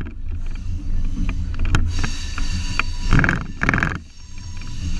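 Low steady rumble of a short train running on museum track, with scattered clicks and two louder bursts a little past three seconds in.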